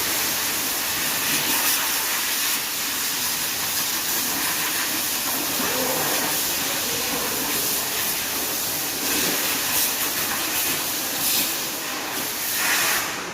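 Machine sander running across a car's epoxy-primed side panel: a steady hissing rush with small surges, stopping right at the end.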